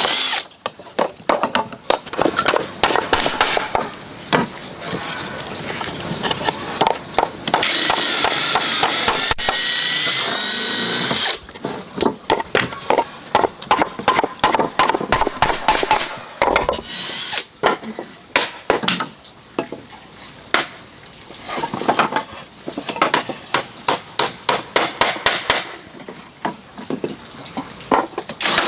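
Woodworking: many sharp knocks of a hammer striking wood in quick, irregular runs. An electric power tool whines for a few seconds about a quarter of the way in.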